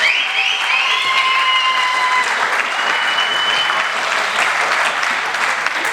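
Spectator crowd applauding, with a few high held whistles over it in the first half.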